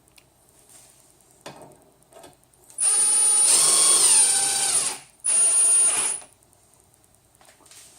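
Power screwdriver running in two bursts, a longer one of about two seconds and then a shorter one of about a second, driving a screw; its whine drops in pitch partway through the first burst.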